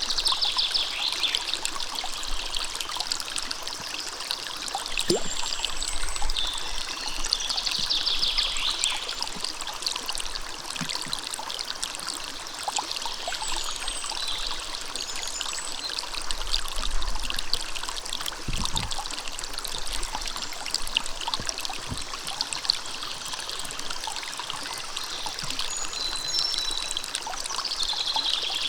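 Steady running water of a small river or stream, trickling and splashing, with faint high bird chirps now and then.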